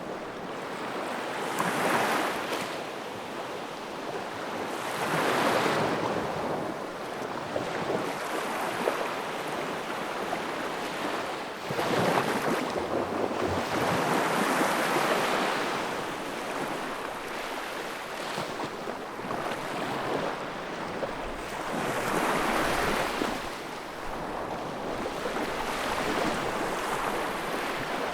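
Wood fire crackling, with a rushing hiss of flames that swells and eases every few seconds.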